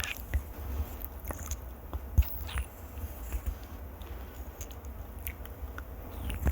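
Close-miked ASMR trigger sounds: irregular soft clicks and crackles over a low, uneven rumble, with one sharper click a little after two seconds in.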